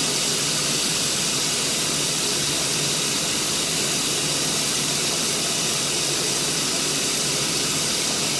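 Steady, even hiss of running water, as from a tap left on.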